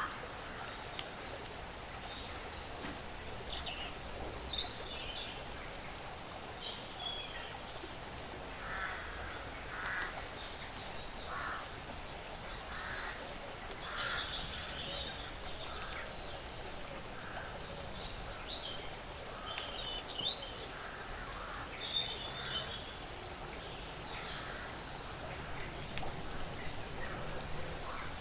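Woodland birds chirping and calling all through, over a steady background hiss. In the middle stretch a series of lower, harsher calls comes about once a second.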